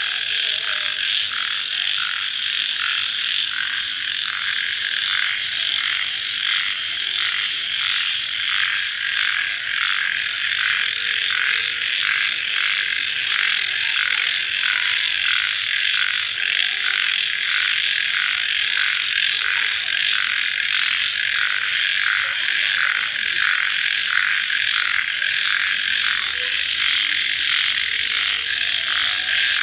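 A dense night chorus of crickets calling: a steady, high-pitched trill that pulses evenly about twice a second, without a break.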